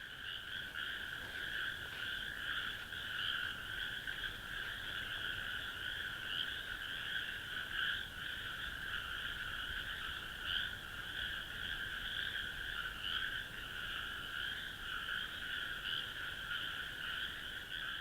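A dense chorus of many frogs calling at once, a continuous overlapping mass of calls sitting in two high bands of pitch.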